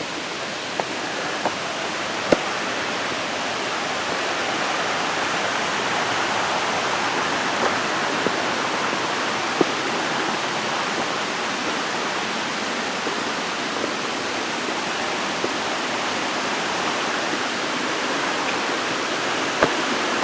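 Waterfall rushing steadily, growing a little louder a few seconds in, with a few faint knocks.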